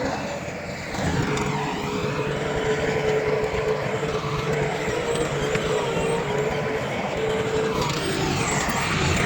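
Heavy diesel earthmoving machinery running steadily, with a held whine throughout.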